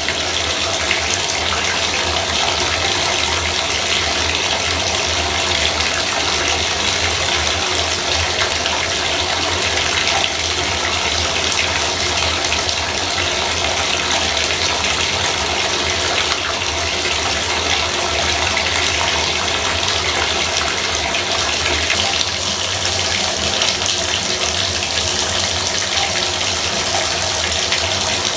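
Bathtub faucet running steadily, water splashing down into the tub, with a constant low hum under the rush.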